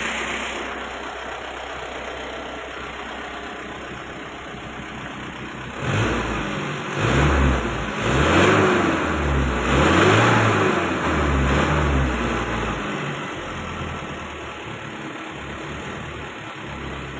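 Diesel engine idling, then revved in about five short blips in the middle, each rising and falling back, before settling to a steady idle again.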